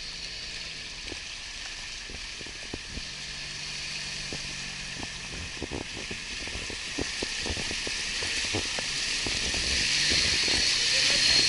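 Rushing river water with an off-road vehicle's engine running faintly underneath, scattered small splashes or knocks, the water noise growing louder toward the end.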